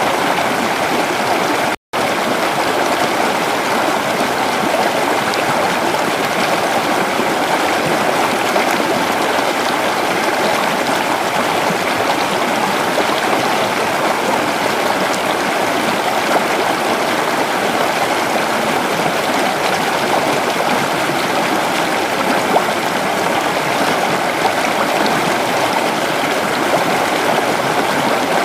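Creek water flowing steadily, an even rushing and babbling. It cuts out completely for an instant just under two seconds in.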